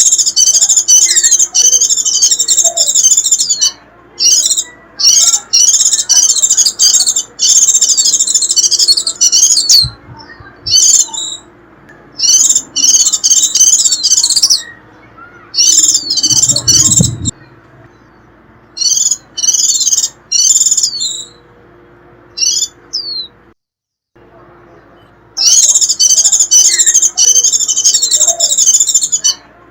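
White-eye (chim khuyên) giving its shrill, rapid twittering 'rít' call in dense high-pitched phrases of one to three seconds with short pauses between them. This is the call type bird keepers play to draw wild white-eyes in. A brief low rumble sounds a little past halfway.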